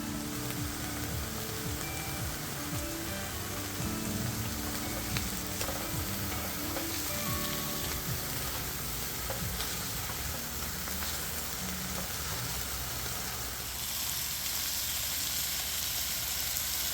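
Food frying in a pan: a steady sizzling hiss with small pops and spatters, louder near the end. Soft background music plays under it.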